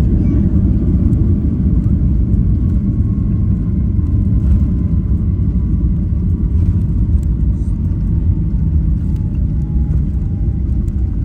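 Cabin noise inside a Qantas Boeing 737-800: a steady low rumble, with a faint tone slowly falling in pitch through the second half.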